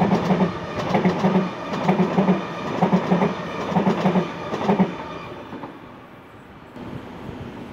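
Sydney Trains Waratah electric train passing close, its wheels clattering over the track in a steady rhythm of paired knocks. The clatter fades about five seconds in as the last car goes by.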